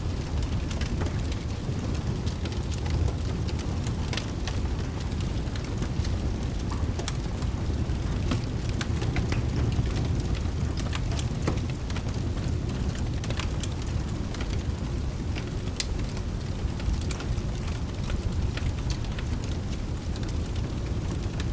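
Mixed rain and fireplace ambience: rain falling as a steady hiss over a deep, steady rumble, with scattered sharp crackles from a wood fire.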